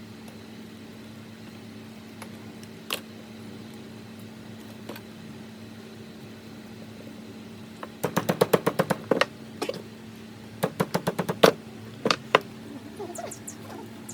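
Rapid sharp knocks in two quick bursts, about eight a second, with a few single knocks after, over a steady low hum.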